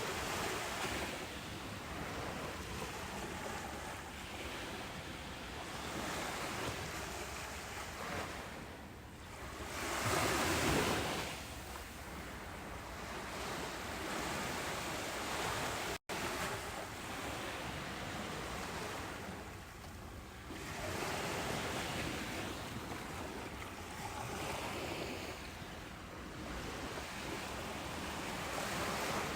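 Ocean surf breaking on a beach: a continuous wash of waves that swells and recedes every few seconds, the biggest wave about ten seconds in. The sound cuts out for an instant about halfway through.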